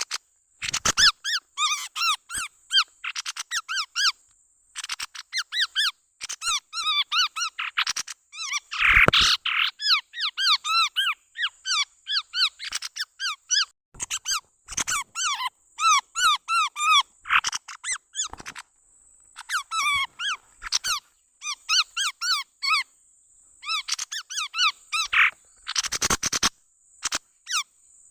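Chestnut-rumped babblers calling in phrases of rapid, repeated chattering notes about a second long, with short pauses between phrases and a steady high hiss underneath. This is a lure recording, used to attract the bird.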